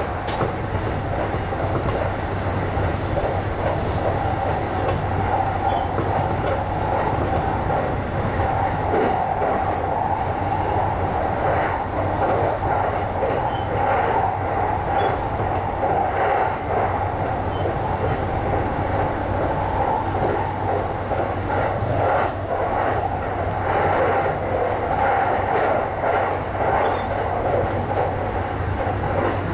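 Running noise of a JR East E235 series electric train heard from inside its front car while it runs at speed: a steady rumble of wheels on rail over a low hum, with occasional short clicks.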